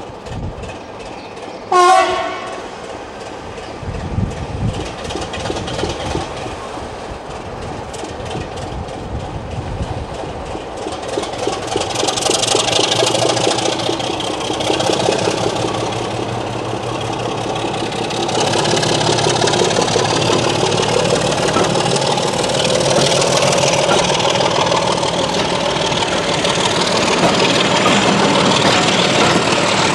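A short, loud horn blast from a heritage diesel locomotive about two seconds in, then the train's running noise, with the clickety-clack of wheels over rail joints, growing louder and staying loud.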